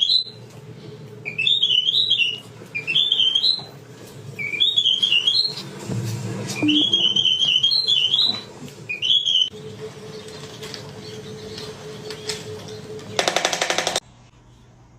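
Pet parrot whistling a warbling tune in about six short phrases, each rising and falling in pitch. Near the end comes about a second of a loud buzzy rattling sound that cuts off suddenly.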